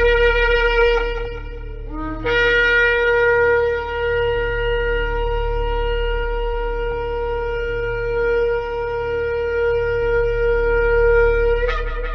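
Shofar sounding: a short blast, then a long blast held on one steady note for about nine seconds that breaks upward as it ends. A low steady hum runs underneath.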